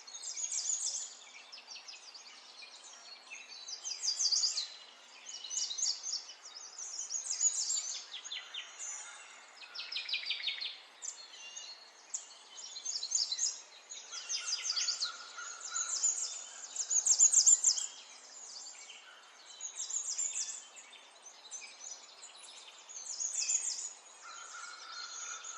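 A small songbird singing a long run of rapid high trills and chirps, phrase after phrase with brief gaps, including a couple of short steady whistled notes.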